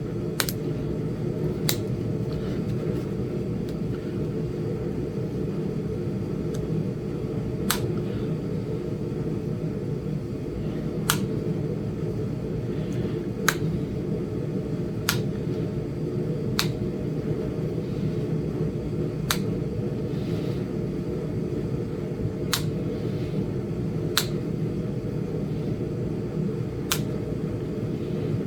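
Sharp single clicks, about eleven of them spaced a second or three apart, as small flakes are taken off a Flint Ridge chert point, over a steady low hum.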